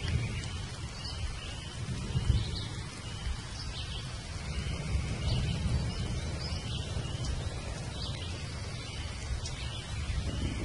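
Thunderstorm ambience: a steady low rumble of thunder under the hiss of rain, with birds chirping again and again. The rumble swells near the end.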